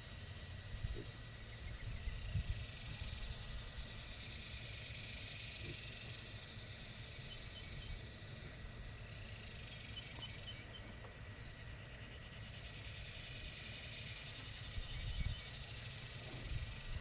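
Outdoor background noise: a low rumble that comes and goes, and a high hiss that swells and fades every few seconds, over a faint, rapid, high chirping.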